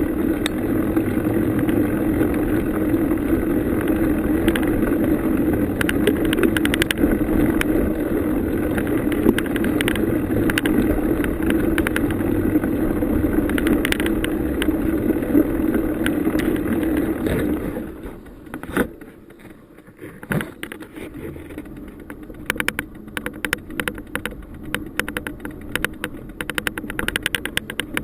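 Bicycle ride noise: a steady rumble of tyres rolling on the trail with the bike rattling. About two-thirds of the way through it drops off sharply, leaving quieter irregular clicking and rattling.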